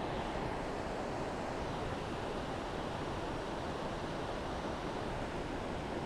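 Steady rush of fast-flowing river water running hard below a bridge.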